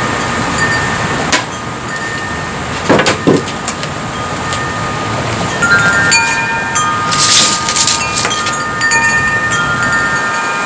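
Several clear, high ringing tones start at different moments and overlap, most of them from about six seconds in, over a steady hiss. A few short knocks come about a second and three seconds in.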